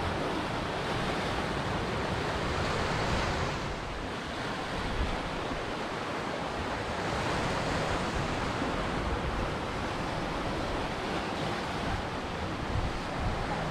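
Ocean surf breaking and washing on a shore, rising and falling: a lull about four seconds in, then another wave surging up.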